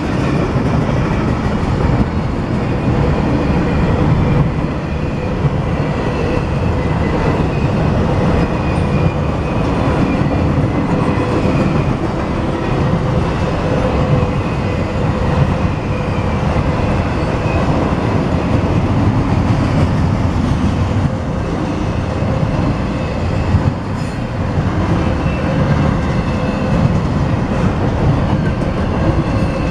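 BNSF double-stack intermodal train's container well cars rolling past: a steady rumble and clatter of steel wheels on rail, with a faint steady whine above it.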